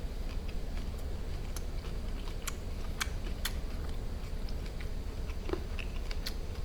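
A person chewing food close to the microphone, with scattered sharp mouth clicks and crunches over a steady low hum.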